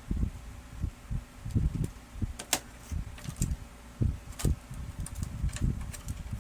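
Handling noises: irregular soft knocks and thumps, with a few sharp clicks around the middle, as parts of a laser printer are handled and fitted during repair.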